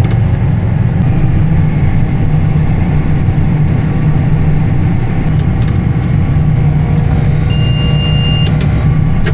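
Tractor engine running steadily, heard from inside the cab. About three-quarters of the way through, a high electronic warning tone sounds for about a second.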